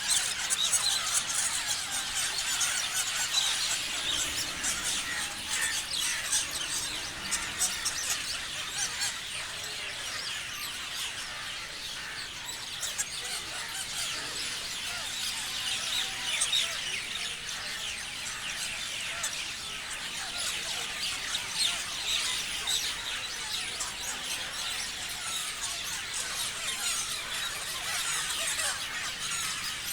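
Many parrots chirping together, a dense stream of short shrill calls overlapping without a break.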